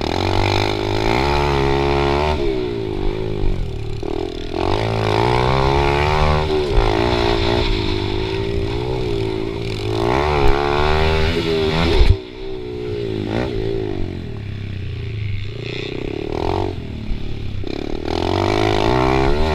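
Honda CRF110 pit bike's small single-cylinder four-stroke engine, revving up and down again and again as it is ridden, its pitch climbing and dropping every second or two. A sharp knock about twelve seconds in, after which the engine is briefly quieter.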